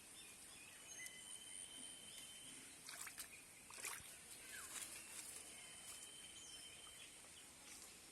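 Near-silent outdoor ambience: thin high steady trills lasting a second or two and a few short chirps, with several faint clicks a little past the middle.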